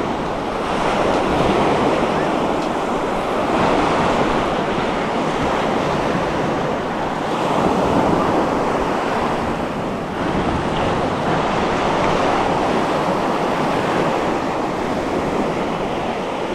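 Calm sea waves breaking and washing up on the shore, swelling and easing every few seconds, with wind rushing over the microphone.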